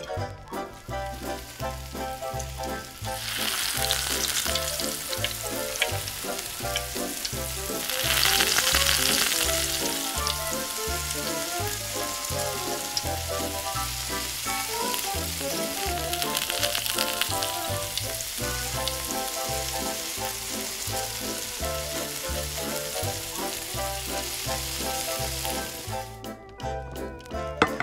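Food frying in hot oil, a steady sizzle that begins a few seconds in, swells for a couple of seconds around the eight-second mark and stops suddenly near the end. Background music with a steady beat plays underneath.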